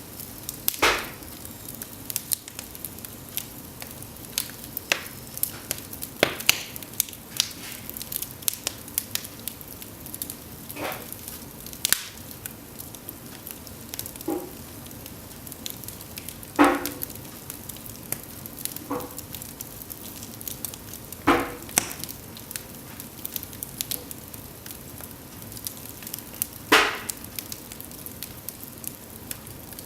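Cedar logs burning in an open fireplace: a steady soft hiss with constant small crackles and snaps, and about eight louder pops spread through.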